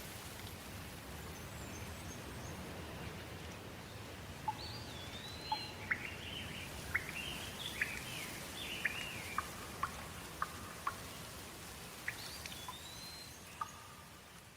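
Steady rain, with birds calling over it from about four seconds in: a string of short chirps and swooping whistles that thins out near the end.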